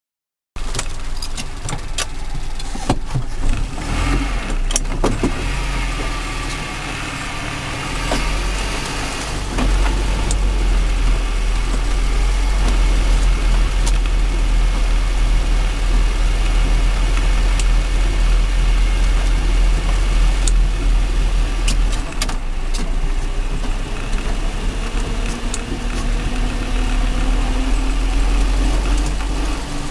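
Land Rover Series engine and drivetrain running, heard from inside the cab while driving on snow: a steady low rumble with a few sharp knocks. A whine rises in pitch near the end.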